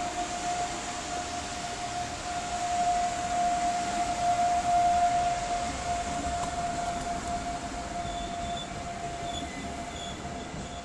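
Passenger train coaches rolling past along the rails behind an electric locomotive, with a steady high tone running throughout. The sound is loudest about halfway through, then fades as the last coach draws away.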